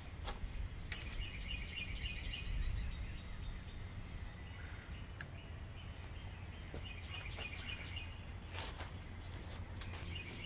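A bird chirping in quick runs, twice, over a steady low outdoor rumble. A few sharp clicks come from the brake rotor being wiggled to free its washer and outer wheel bearing.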